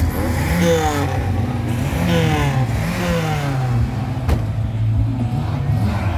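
Volkswagen Polo 86C engine revved in three quick rising blips over its idle, with a single sharp click about four seconds in.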